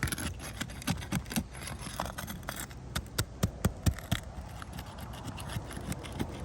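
Roof shingles being pried and worked loose to break their adhesive seal: irregular scraping and sharp cracking clicks.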